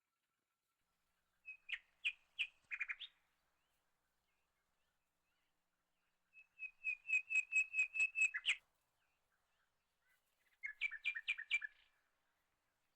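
A bird calling in three bursts of rapid, repeated high chirps, a few seconds apart. The middle burst is the longest.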